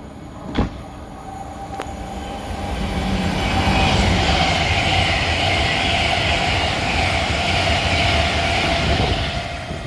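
Two coupled Avanti West Coast Class 805 Evero trains passing through the station non-stop: a rush of wheel and air noise builds over a few seconds to a loud steady peak with a faint steady whine, then starts to fade near the end. A short knock about half a second in.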